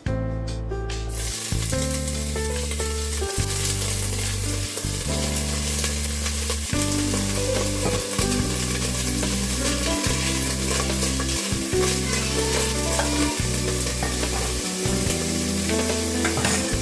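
Food sizzling as it fries in a pan, starting about a second in, over background music with piano and bass notes.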